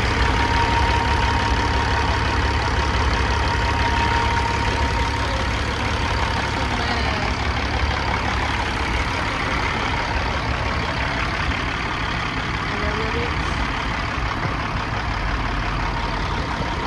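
Heavy diesel truck engine idling with a steady low rumble, and a faint steady tone over it for the first few seconds.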